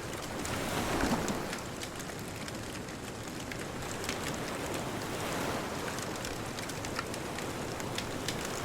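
Bonfire crackling, with frequent small sharp pops, over a steady wash of distant ocean waves; a wave swells up about a second in.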